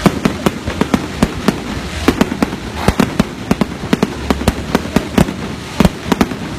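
Fireworks going off: a rapid, irregular series of sharp bangs and cracks, several a second.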